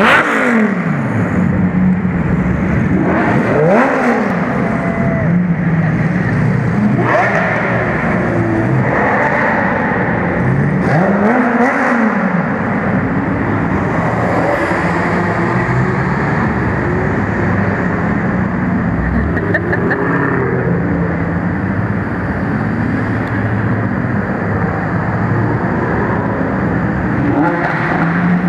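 A procession of supercars, among them a McLaren, a Maserati and Lamborghinis including an Aventador, driving slowly past with engines running, the revs rising and falling several times in the first half.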